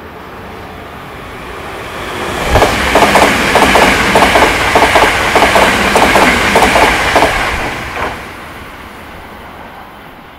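Hankyu 1000 series electric train passing close by, its wheels clacking over rail joints in a quick regular rhythm of paired clicks, about four a second. The sound rises over the first couple of seconds, stays loud for about five seconds, then dies away as the train recedes.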